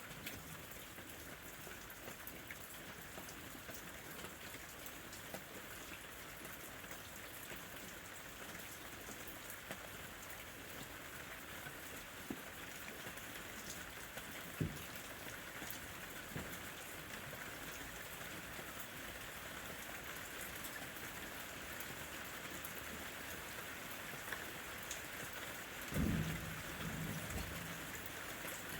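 Steady rain falling, with scattered drops ticking close by. There is one sharp tick about halfway through and a short low rumble near the end.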